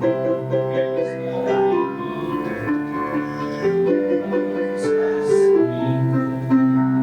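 Instrumental interlude on a keyboard with a piano sound, playing a melody over chords between sung verses of a festa junina song.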